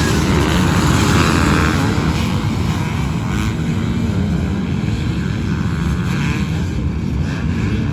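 Dirt bike engines running hard under a heavy low rumble, with pitch rising and falling as the throttle comes on and off.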